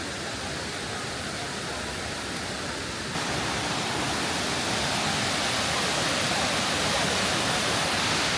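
Waterfall rushing, a steady roar of falling water that gets louder about three seconds in and keeps slowly building.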